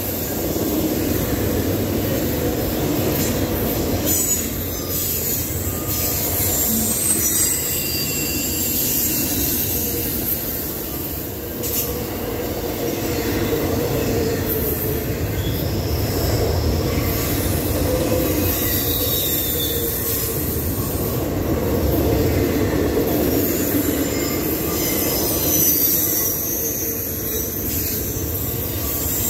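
Norfolk Southern double-stack intermodal well cars rolling past: a steady rumble of steel wheels on rail, with high-pitched wheel squeals coming and going and a few sharp clanks.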